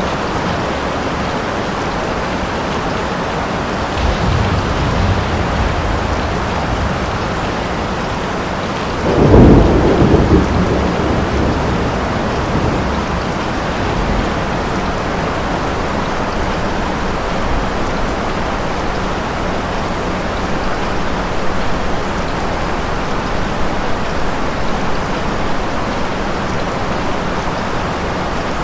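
Steady heavy rain falling, with a low roll of thunder about four seconds in and a loud, sudden thunderclap about nine seconds in that rumbles away over the next few seconds.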